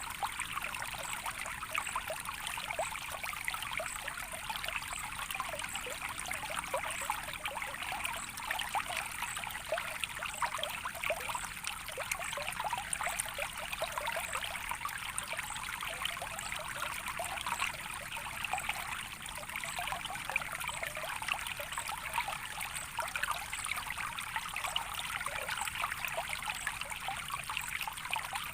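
Small stream of water trickling steadily, with fine bubbling flecks over an even rush.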